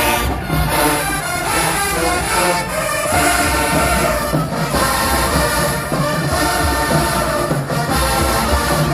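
Loud HBCU marching band music, brass playing sustained chords over the drum line.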